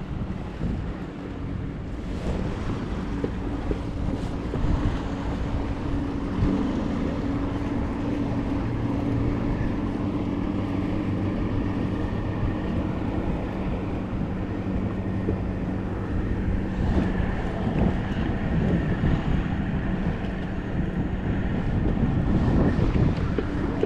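A passing boat's engine droning steadily, its pitch shifting briefly a few seconds in and the hum fading out a little past the middle, with wind buffeting the microphone throughout.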